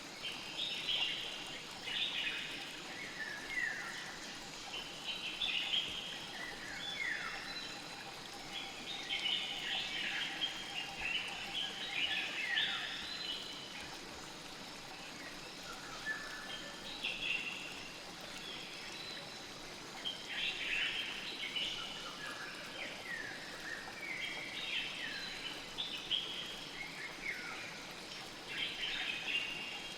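Birds calling with many short chirps that drop in pitch, coming in clusters every second or two, over a steady rush of flowing river water.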